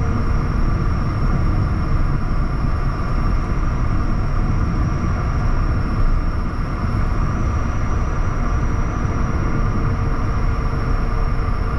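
Bombardier Challenger 350 business jet's turbofan engines running, a steady loud rumble with a thin steady high whine above it.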